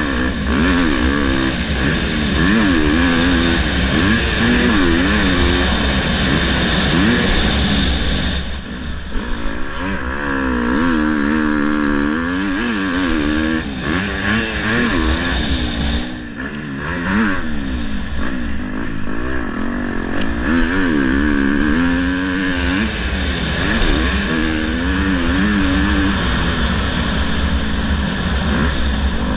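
Motocross dirt bike engine revving hard and easing off again and again as it is ridden, its pitch rising and falling every second or so. A steady low rumble of wind on the microphone runs underneath.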